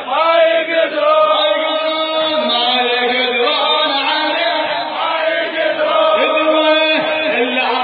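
Male voice chanting an Arabic nasheed in long held notes that bend and change pitch every second or two.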